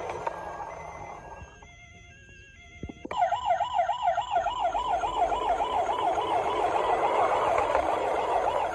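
Electronic siren of a battery-powered toy vehicle, a fast warbling wail that swings up and down about four times a second. It starts about three seconds in, after a short fading electronic toy tune.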